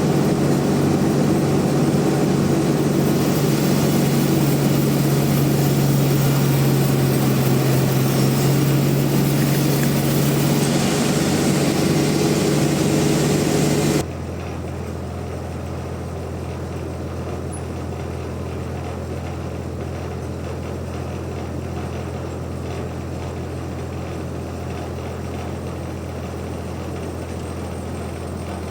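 Bandsaw sawmill machinery running steadily, loud with a strong hum and a hiss. About halfway through it drops suddenly to a quieter, lower steady hum.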